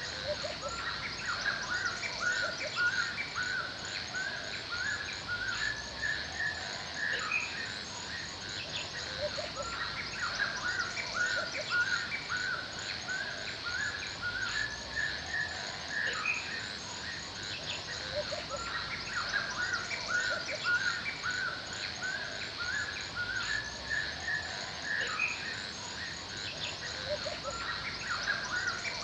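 Forest birds chirping and calling steadily, many short overlapping notes, with a high thin note repeating about twice a second over a steady high hiss of insects.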